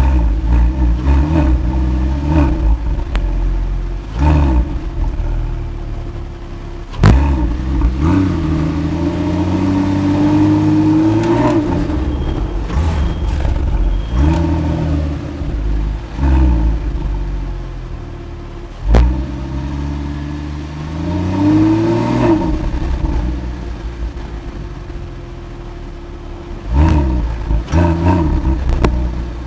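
Porsche 997 Carrera's M97 flat-six through the Porsche Sport Exhaust, heard from the driver's seat as it revs and pulls. The pitch climbs in long rising runs twice, and sharp throttle blips come about four seconds in, again near seven seconds and near the end.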